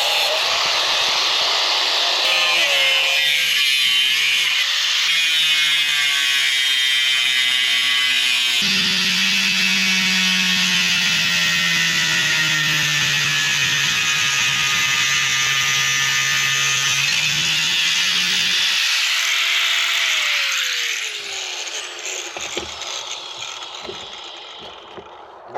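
Angle grinder with a cutting disc cutting through the metal collar on an electric scooter's front fork: a loud, steady, high-pitched whine and hiss whose pitch shifts as the disc bites. About 20 seconds in the grinder is switched off and spins down with a falling whine.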